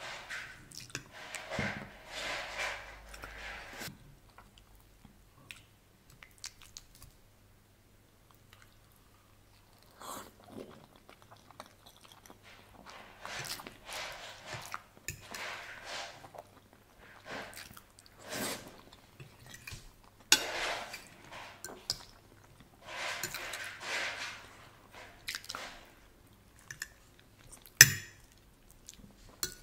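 Chewing of soft ricotta-filled ravioli in tomato sauce: wet mouth sounds in repeated bursts with pauses between, and a quiet stretch early on. Near the end a fork clinks sharply against the plate while cutting a ravioli, the loudest sound.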